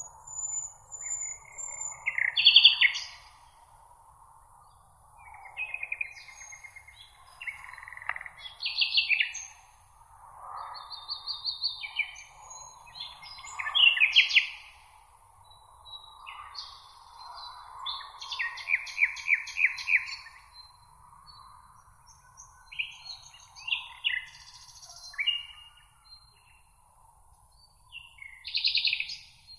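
Several songbirds singing in a meadow: short, separate phrases of trills, rapid repeated notes and chips every second or two, over a faint steady hiss.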